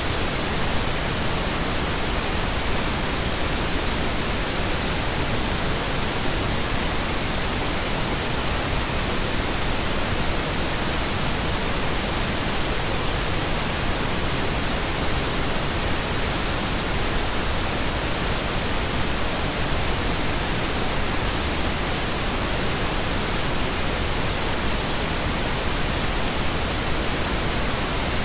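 Steady pink noise: an even, unchanging hiss spread across the whole range of pitch, with no events or variation.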